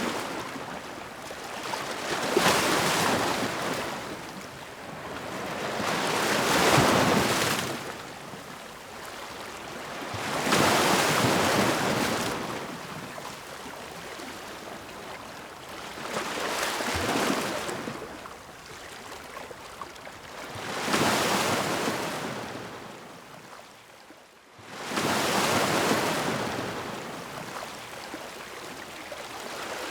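Ocean waves breaking and washing back, a swell of surf noise about every four seconds. There is a short lull just before the last wave, which comes in suddenly.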